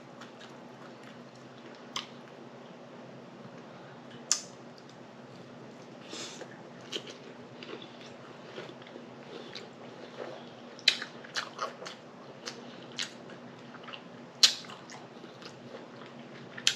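Close-miked chewing of salad, with scattered short wet smacks and crunches from the mouth, thicker and louder in the second half.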